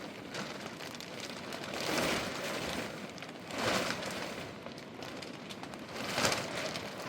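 Steady hiss of rain, with three louder rushing swells about two, three and a half, and six seconds in.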